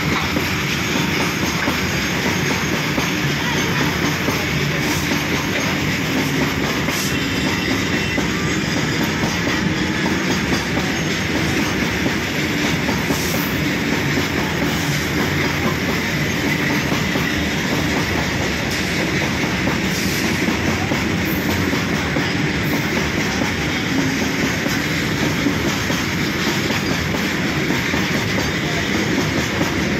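Goods train of covered hopper wagons rolling past close by. Its wheels make a steady, dense rolling noise on the rails, with a few sharp clicks scattered through it.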